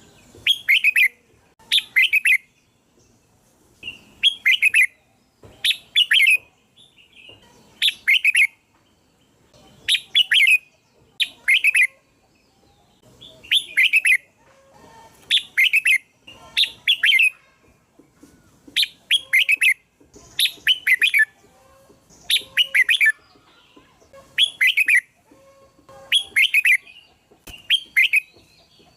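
Red-whiskered bulbul singing: short, bright whistled phrases of quick falling notes, repeated about every two seconds.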